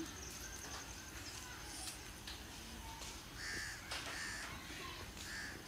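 A bird calling faintly in the open air, with short repeated calls starting about three and a half seconds in, over a thin steady high tone in the first half.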